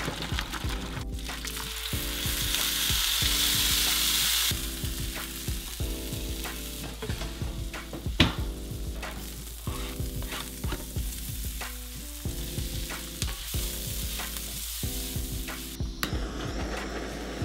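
Food sizzling in a hot pan, with utensil clatter and small knocks, over background music with repeating chords; a sharp loud knock about eight seconds in, and near the end the rushing hiss of a blowtorch flame.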